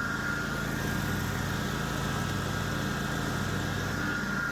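Lawn tractor engine running steadily, with a constant low drone and a steady high whine.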